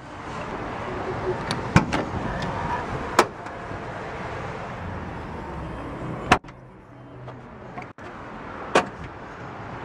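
Steady outdoor road and traffic noise, with several sharp clicks and knocks spread through it.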